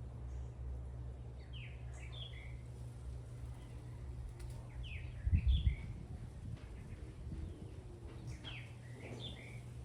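Venezuelan troupial singing: a short phrase of a few loud, sliding whistled notes, repeated three times about every three and a half seconds. A brief low rumble about halfway through is the loudest sound.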